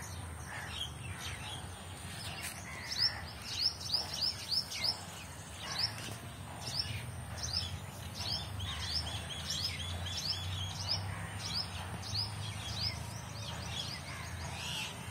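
Small birds chirping, with many short chirps that fall in pitch, some in quick runs, over a steady low hum.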